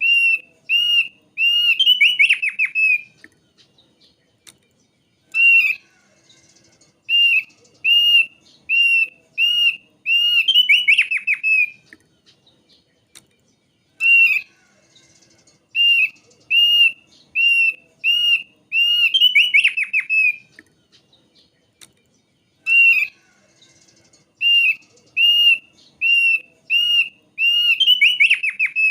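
Thick-billed heleia (opior paruh tebal) singing. Each phrase is a run of clear, arched whistles, about two a second, ending in a quick tumbling trill. The phrase repeats four times with short pauses between.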